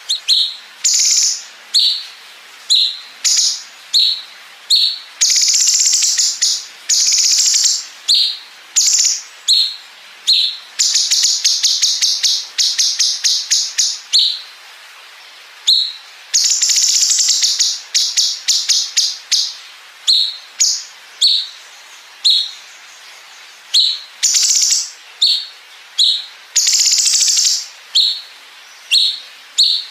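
Cucak cungkok song for bird training: short, sharp, high-pitched notes about once a second, alternating with long, rapid buzzing rattles (the 'bren') that each last a second or two.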